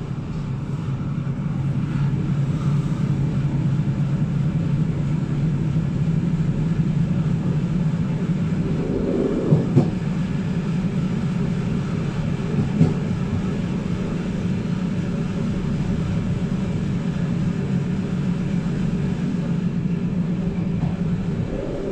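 Passenger train heard from inside a carriage: a steady low rumble and hum, with a few short knocks about ten and thirteen seconds in.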